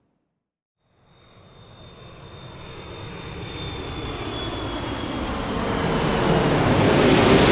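Airliner engine noise swelling steadily louder after about a second of silence: a broad rush with a thin high whine on top that sinks slightly in pitch.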